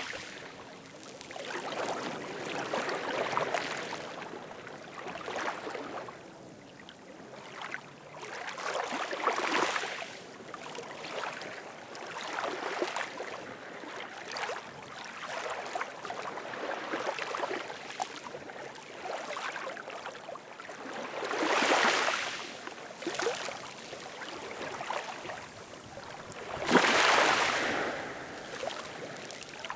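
Ocean waves washing in and drawing back, a hissing rush that swells and fades every few seconds, with two stronger surges in the last third.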